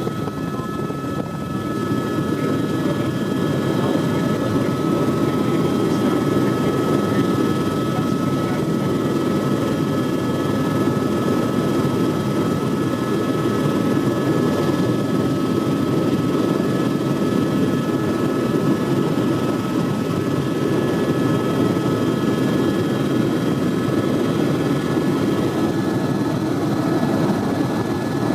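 Helicopter in flight: steady, loud rotor and engine noise with several thin, steady high whines over it.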